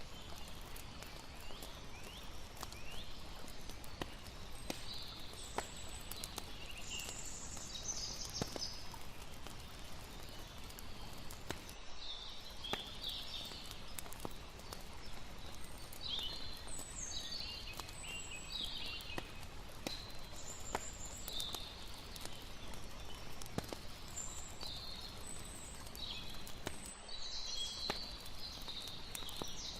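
Layered night ambience: a crackling campfire, with frequent sharp pops and snaps, over a low steady wash, and clusters of short high-pitched chirps throughout.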